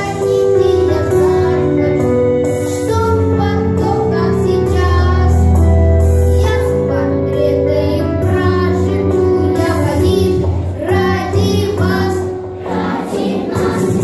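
Group of young children singing a song in unison over instrumental accompaniment.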